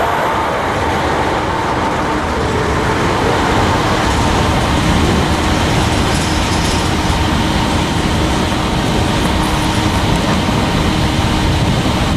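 Manifest freight train's cars rolling past on the rails, a loud steady rumble and rattle with a faint steady whine.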